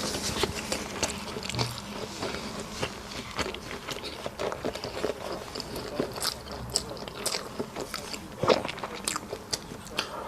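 A person chewing food close to the microphone, with many short clicks scattered throughout.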